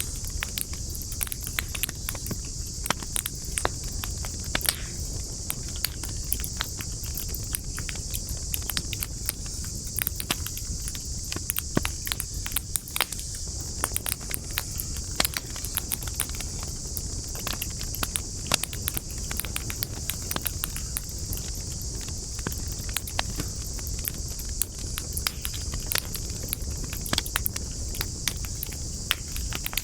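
Wood campfire crackling, with frequent irregular sharp pops and snaps of burning wood over a steady high-pitched hiss and a low rumble.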